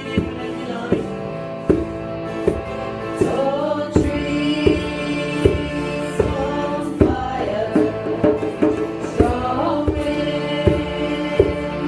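A group singing a kirtan chant together in unison, with sustained sung lines over a steady percussion beat of a little more than one stroke a second.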